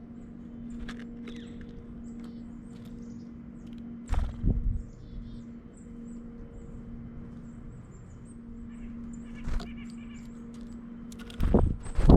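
Wild birds giving many short, high, thin calls over a steady low hum. There are loud thumps about four seconds in and again near the end.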